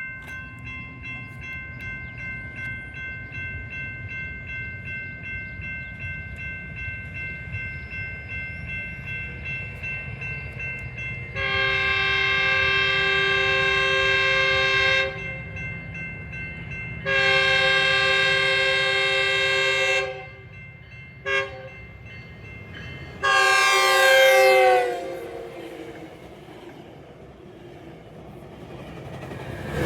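Locomotive air horn sounding the grade-crossing pattern, two long blasts, a short one and a final long one, over the rumble of a train. The last blast drops in pitch as the locomotive passes.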